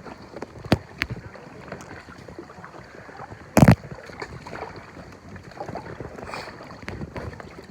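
Kayak being paddled: water splashing around the hull with scattered light knocks, and one loud, brief thump about three and a half seconds in.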